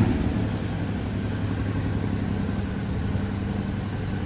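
Suzuki Alto Works CR22S's small three-cylinder turbo engine idling steadily after about ten minutes of running.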